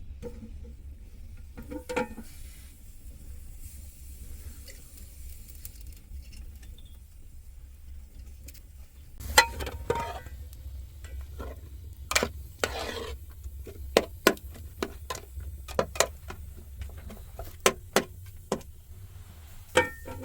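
Irregular knocks and clinks, a few at first and then a quick scatter in the second half, over a steady low rumble.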